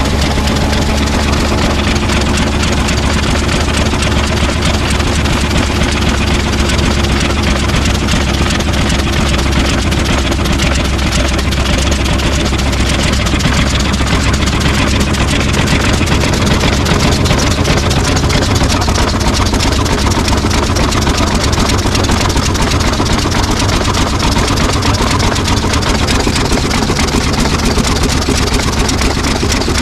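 Ruston 26 hp RM350 single-cylinder diesel engine running steadily at an even speed.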